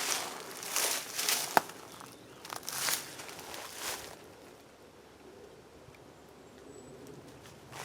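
Footsteps, about five steps over the first four seconds with a sharp click among them, then they stop.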